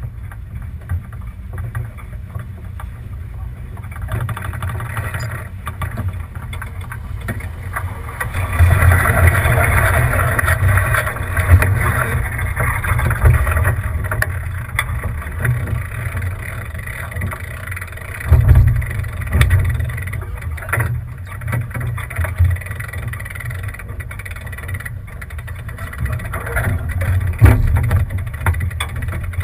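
Wind buffeting a GoPro's microphone on a sailboat under way, with water rushing and splashing past the hull; the rushing grows louder for several seconds about a third of the way in.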